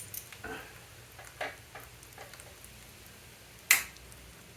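Scattered small clicks and taps of hands working the fuel petcock and tank on a vintage Vespa, with one sharp, louder click about three and a half seconds in.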